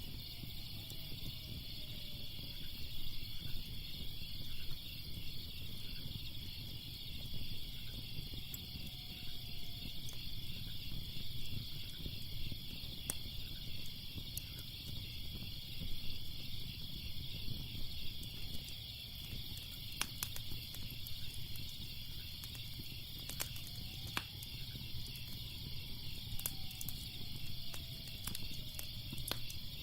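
Layered night ambience: crickets chirping in a steady, fast-pulsing chorus over a low rumble, with the sporadic sharp crackles and pops of a burning fire, more frequent in the second half. A few faint falling tones drift in now and then.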